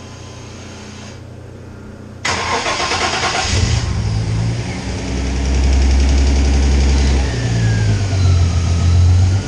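Twin-turbo engine of an MG Midget project car started for the first time: after about two seconds of quiet it cranks and catches suddenly, then runs, its revs rising around five seconds in and wavering after.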